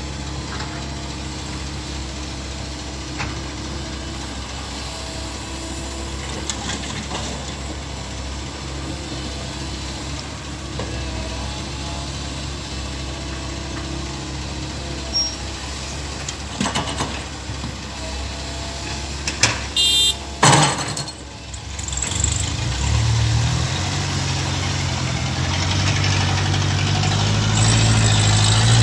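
Komatsu PC128 excavator's diesel engine running steadily. About two-thirds of the way through there is a short high squeal and a few sharp knocks; after that the engine grows louder and its pitch shifts up and down as it works under load.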